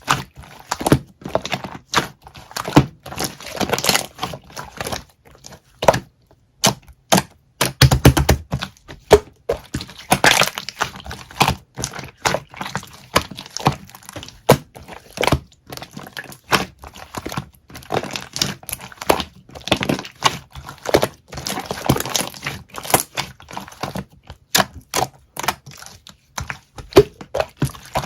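Slime being squished and pressed by hand, giving quick, irregular clicks, pops and crackles of trapped air.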